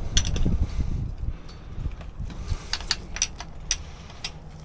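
Metal hand tools clicking and clinking against hardware on an Edelbrock carburetor as a wrench is tried on a fastener: a string of separate sharp clinks over a low rumble of handling noise.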